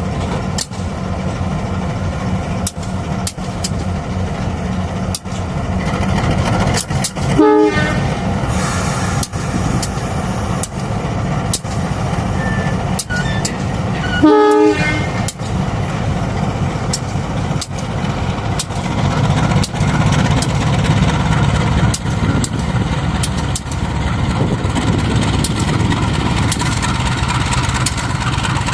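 Diesel-electric locomotive (CC 204) engine running steadily, sounding two short horn toots about seven and fourteen seconds in, its engine growing louder in the second half as it gets ready to shunt.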